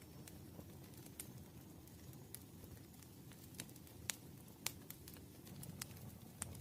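Campfire crackling softly, with a low steady rumble of burning and several sharp, irregular pops of the wood, the loudest about four seconds in.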